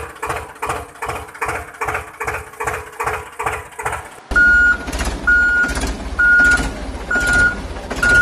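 A rhythmic pulsing for about four seconds, then a heavy vehicle's engine running with its reversing alarm beeping about once a second.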